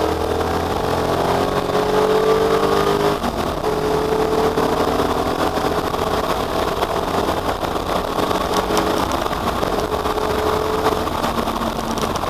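Ford Capri V8 race car engine under hard acceleration. Its pitch climbs, drops sharply at a gear change about three seconds in, then climbs again, with another rise later on.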